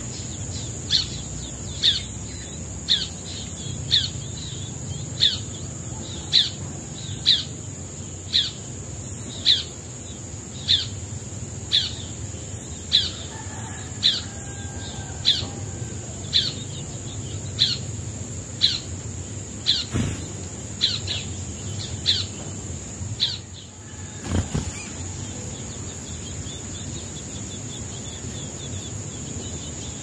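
A bird repeats a short, falling chirp about once a second, stopping about three-quarters of the way through, over a steady high-pitched insect drone. Two soft knocks come near the end of the calling.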